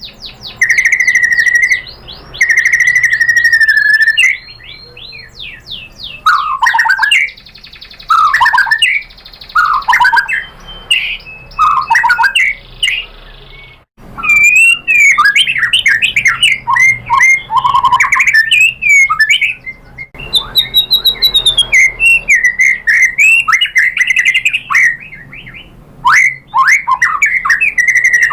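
White-rumped shama singing loudly: first a few clear whistles held at one pitch, then a run of falling swooping notes, and after a short break about halfway, fast varied phrases of quick notes.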